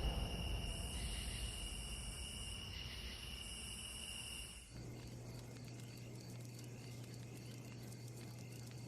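Night ambience of insects chirping, with steady high cricket-like trilling and a pulsing higher buzz. About halfway through it cuts off suddenly, leaving a faint steady low hum.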